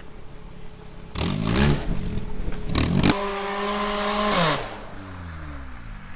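A 1995 Mazda's Ford engine revving hard in two short bursts, then held high for over a second before winding down with falling pitch. It runs freely now, and the owners call it fixed.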